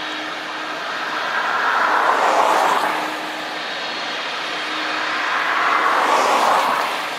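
Two road vehicles pass one after the other, each a rushing swell of tyre noise on wet pavement that rises and fades over about two seconds.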